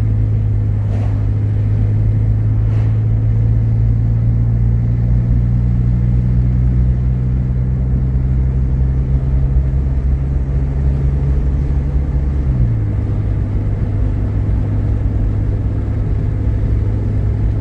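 Vehicle engine idling steadily after being revved to high RPM, a constant low hum. About twelve seconds in, the idle speed drops a step lower and settles.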